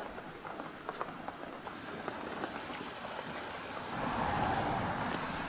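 Rain falling, with scattered sharp drips and taps against a steady hiss. About four seconds in, a louder steady hiss comes in.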